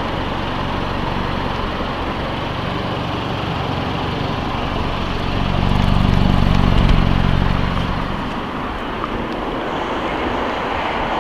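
Steady motor-vehicle noise, with a louder low rumble that swells about five seconds in and fades by eight seconds.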